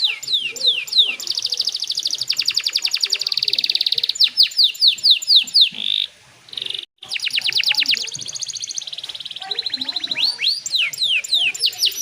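Domestic canary singing a fast, varied song: runs of quick downward-sweeping whistles alternating with rapid trills of repeated high notes. The song breaks off briefly about six to seven seconds in.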